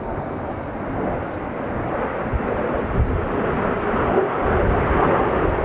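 Jet noise from Kawasaki T-4 jets swelling as they approach, with gusty wind buffeting the microphone.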